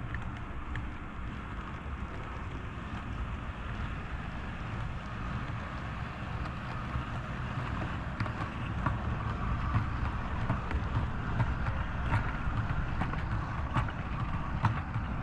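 OO gauge model train running along the layout's track: a steady rumble of small motor and wheels on rail, with sharp clicks growing more frequent from about eight seconds in, as the wheels pass over rail joints.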